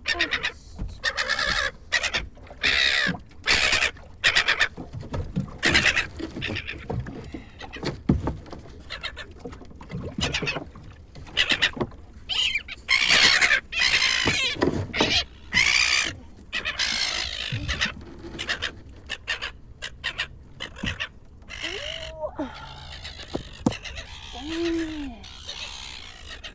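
Gulls calling over and over in loud, harsh squawks, in irregular bouts, as a baby gull is handled and moved; from about 22 s on, softer calls that rise and fall in pitch come in.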